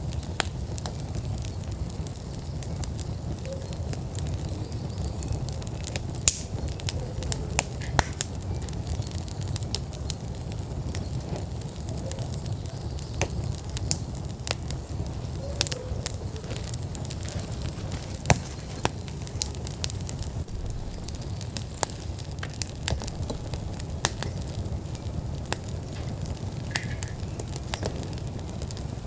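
Wood fire burning in an outdoor fire pit: the flames give a steady low rumble, with frequent sharp crackles and pops from the burning logs.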